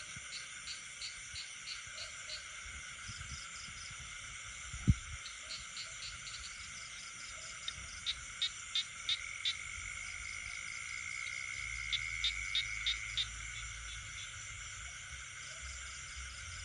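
Night chorus of frogs and insects: steady high trilling from insects, with a frog calling in short series of loud pulses, about three a second, twice in the second half. A single sharp low thump about five seconds in.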